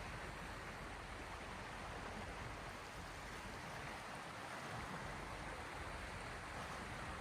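Steady hiss of small sea waves washing, even throughout with no distinct breaking surges.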